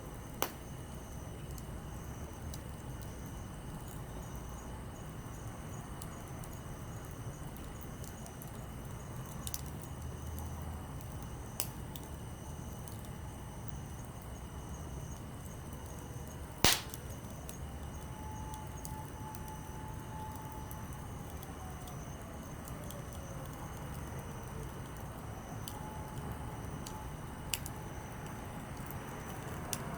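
Campfire of split firewood burning with a low steady rush, broken by a handful of sharp crackling pops, the loudest about two-thirds of the way through.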